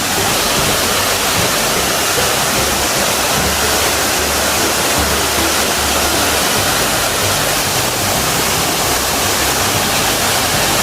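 Steady rushing of a waterfall, with water pouring down through a hole in the rock into a pool.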